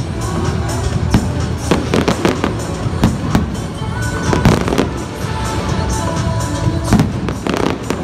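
Aerial firework shells bursting one after another: many sharp bangs and crackles in quick succession, with music playing underneath.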